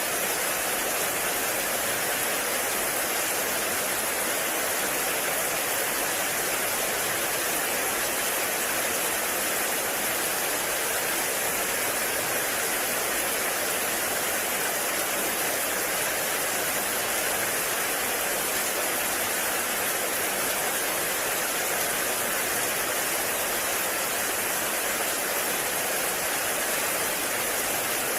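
Heavy rain falling in a forest: a steady, even hiss of rain with no breaks or single drops standing out.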